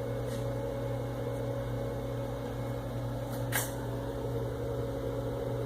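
Steady low electrical hum from powered-up shop machinery, with one sharp click about three and a half seconds in.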